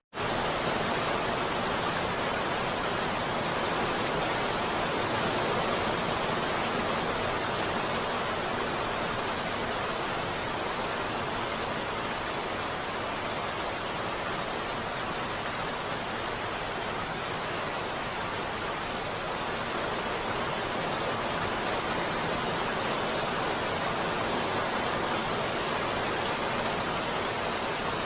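Heavy rain falling steadily, an even hiss without thunder or distinct drops, cutting in abruptly at full level at the very start.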